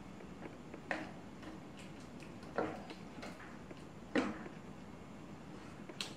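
Four sharp, separate clicks and knocks of metal bicycle parts being handled, with fainter ticks between them, as the rear wheel is fitted to a folding bike.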